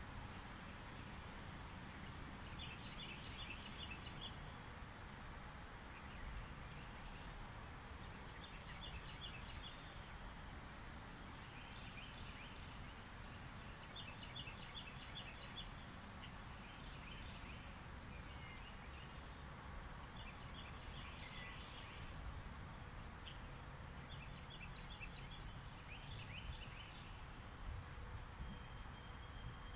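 Outdoor ambience: a bird calls in short, rapid chattering trills about every two to three seconds over a faint steady low background noise.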